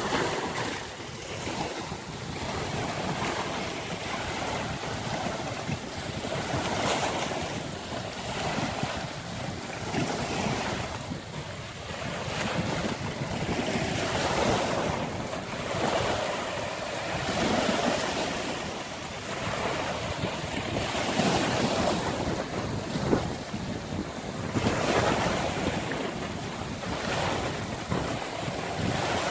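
Sea waves breaking on a beach in stormy weather, a continuous surf wash that swells and falls every few seconds, with wind buffeting the microphone.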